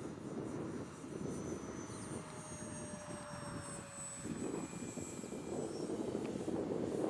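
Twin electric motors and propellers of an E-flite Twin Otter 1.2m RC plane in flight: a thin, high whine that falls slightly in pitch as it passes, over a steady rumble of wind on the microphone.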